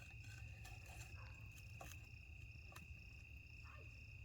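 Crickets trilling steadily in the night, one high unbroken tone with shorter chirps repeating above it, and a few scattered sharp clicks.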